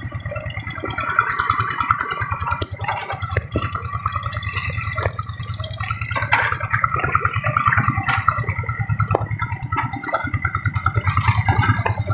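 Diesel engine of a rice-paddy tractor running steadily under load, with a steady, evenly pulsing low beat as it works the flooded field.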